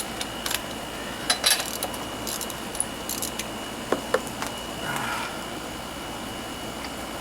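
Hand tools being handled on a lawnmower engine: scattered small metallic clicks and clinks. A steady background hum runs underneath, with a short soft hiss about five seconds in.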